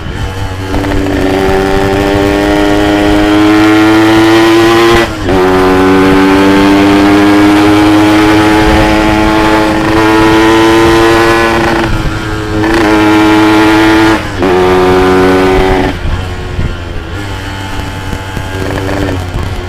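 Yamaha RX-King's two-stroke single-cylinder engine under hard acceleration. Its pitch climbs steadily in each gear, breaking at gear changes about five seconds in and again twice after the middle. Near the end the throttle closes and it drops back quieter.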